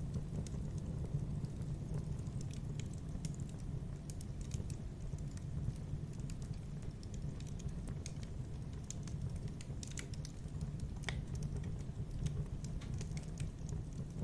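Fireplace wood fire crackling: irregular sharp pops and snaps over a steady low rumble, with a couple of louder snaps about two thirds of the way in.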